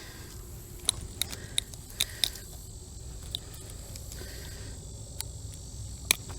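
A scatter of sharp clicks and taps, about eight in all at uneven intervals, over a faint steady low hum and a thin steady high whine.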